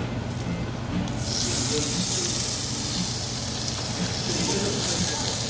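Meat sizzling on a hot grill: a steady sizzle that starts about a second in, over faint background voices.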